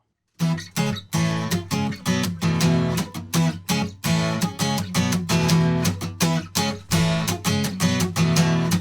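Acoustic guitar strummed in a steady rhythm, starting about half a second in: a song's instrumental intro before the vocals.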